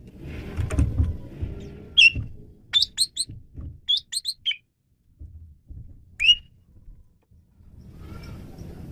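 Male Asian pied starling (jalak suren) calling in short, sharp whistled notes, in quick clusters about two, three and four seconds in and a single note a little after six seconds. A low rumble sits under it at the start and again near the end.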